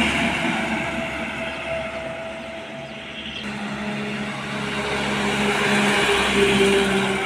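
Heavy road vehicles passing: one vehicle's engine fades away, then another approaches, growing louder to a peak near the end.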